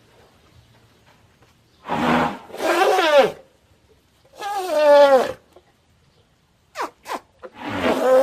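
Elephant trumpeting: a series of four loud, brassy calls, each sliding down in pitch. Two brief sharp clicks come just before the last call, which begins near the end.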